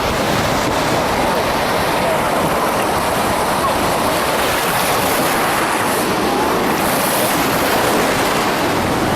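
Ocean surf: a steady rush of waves breaking and washing ashore.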